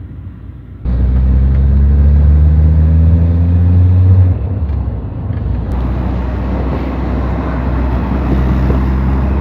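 Ford Focus on the move: about a second in the engine note comes up sharply and climbs slowly in pitch as the car accelerates. Around four seconds in it eases off, leaving steady road and wind noise with a softer engine hum.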